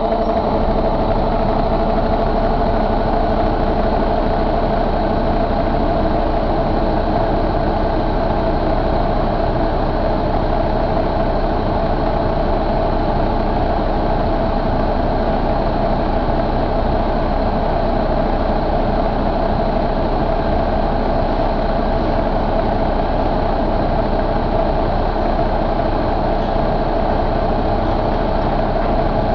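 2013 International MaxxForce 13 inline-six diesel engine idling steadily.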